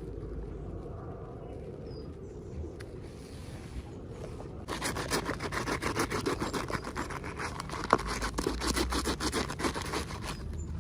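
Unboxing handling noise: rapid rustling, crinkling and scraping of packaging, starting about halfway through and running densely almost to the end, with one sharper click near the end. Before it there is only a low hum.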